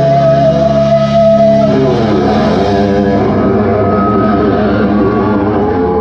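Live heavy metal band playing loud distorted electric guitar: a held chord, then from about two seconds in, notes that bend up and down.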